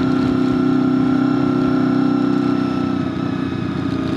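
Honda VFR800FI's V4 engine running at a steady cruise, easing off slightly about three seconds in.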